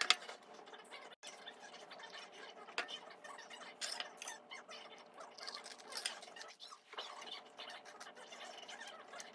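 Light clinks, taps and scraping from small household objects being handled, with a sharp click right at the start.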